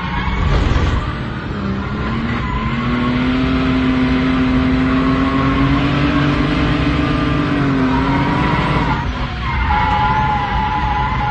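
Straight-piped, turbocharged BMW M50 straight-six in an E36 drift car, running hard with tyres squealing. The engine note climbs slowly for several seconds, drops briefly near the end, then picks up again.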